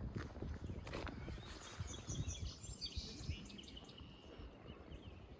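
Small birds chirping and trilling for a couple of seconds, over a low rumble and a couple of sharp clicks in the first second.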